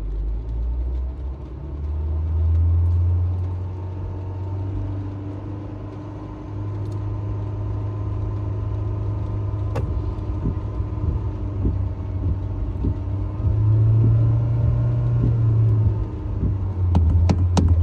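Honda HR-V's four-cylinder engine running with a deep rumble, revved up twice and settling back between. A fast ticking, about four a second, starts near the end.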